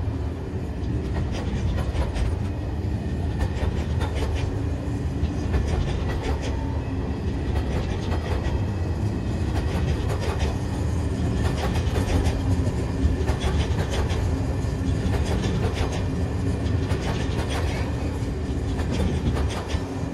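Empty timber stake wagons of a freight train rolling past, wheels clacking over the rail joints in a rapid irregular series over a steady low rumble.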